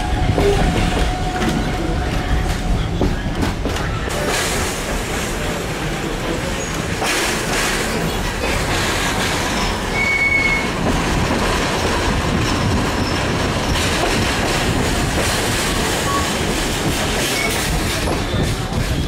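Kuranda Scenic Railway passenger train rolling along the track, heard from inside a carriage with open windows: a steady rumble and clatter of wheels on rails, with a few short high squeaks here and there.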